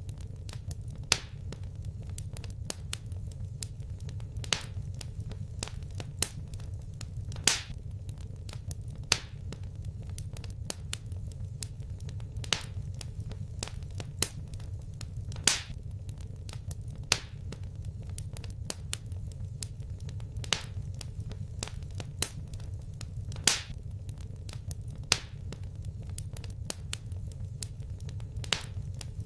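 Wood fire crackling in a fireplace: sharp pops and snaps at irregular intervals, a few louder than the rest, over a steady low rumble of the flames.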